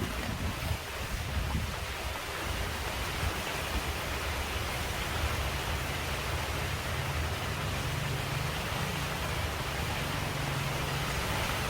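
Steady rain falling on leaves, an even hiss.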